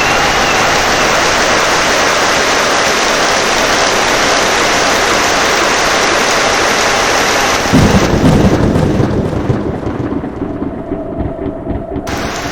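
Heavy rain falling steadily, then about three-quarters of the way in a sudden loud clap of thunder that rolls on as a low rumble, fading over a few seconds.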